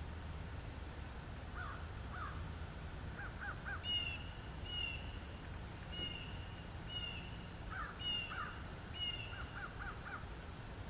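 Wild birds calling: short, sharp calls repeated in pairs and triples, with quick, lower chirps in little runs between them, over a faint low rumble.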